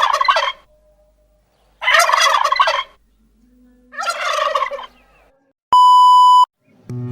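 Turkey gobbling in three rattling calls about two seconds apart, the first already under way. Then a steady electronic beep of under a second, the loudest sound, near the end.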